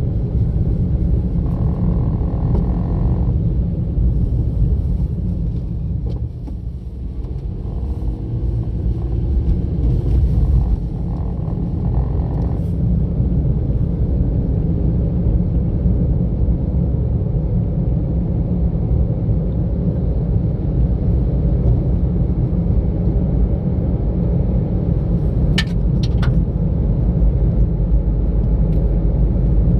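Car driving along a road: steady low engine and tyre rumble, dipping briefly a few seconds in, with a couple of short ticks near the end.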